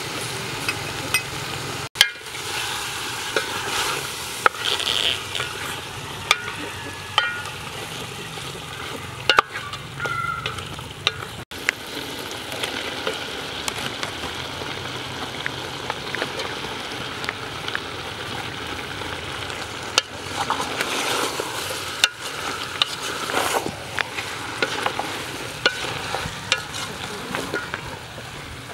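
Fish and sliced green banana sizzling in a large aluminium cooking pot while a wooden spatula stirs them, with scattered light knocks and scrapes of the spatula against the pot. The steady sizzle breaks off for an instant about three times.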